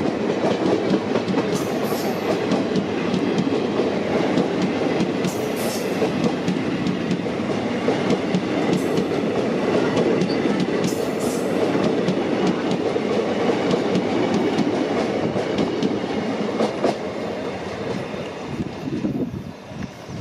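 Indian Railways passenger coaches passing close by at speed, a steady rushing roll with wheels clattering over the rail joints. The sound falls away over the last few seconds as the end of the train goes by.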